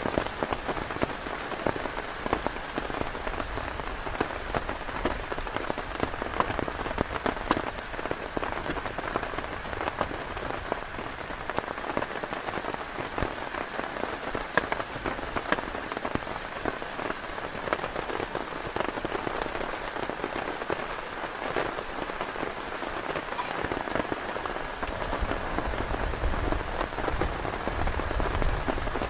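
Heavy rain falling on a tent, a dense, steady patter of drops. A low rumble builds in near the end.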